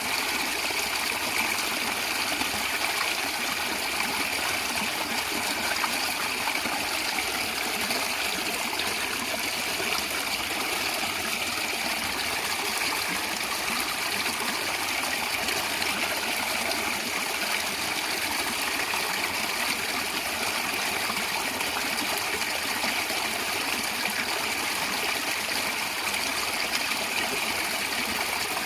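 Stream water gurgling and trickling steadily over rocks.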